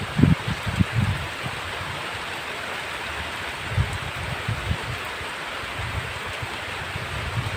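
Heavy rain falling steadily in an even hiss, with short irregular low rumbling thumps underneath, most in the first second and again about four seconds in.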